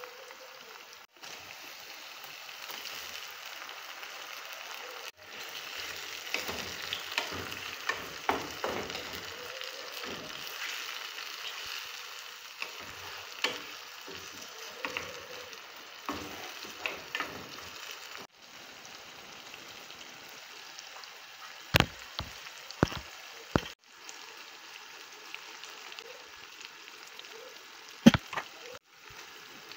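Onions and tomatoes frying in palm oil in a metal pot, sizzling steadily, with a wooden spatula stirring and scraping through them. A few sharp knocks against the pot in the second half, the loudest near the end.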